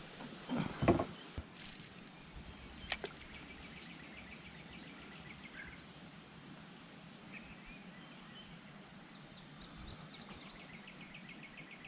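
Quiet creekside outdoor ambience with a faint, fast, evenly repeating high ticking trill that comes twice. There are a couple of knocks just under a second in and a sharp click about three seconds in.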